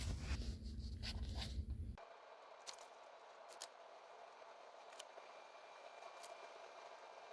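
Close rustling and scraping, like fabric or bedding shifting near the microphone, for about two seconds. It then cuts off abruptly to a faint hiss with a few soft clicks.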